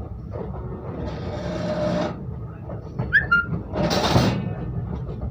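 Low rumble of a moving train, with people's voices over it and two brief hissing rushes, one about a second in and a louder one about four seconds in.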